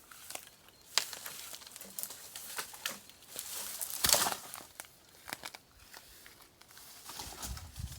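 Dry, dead tree limb being torn off and stepped on: scattered crackling and snapping of dry wood and twigs, with a louder crunch about four seconds in.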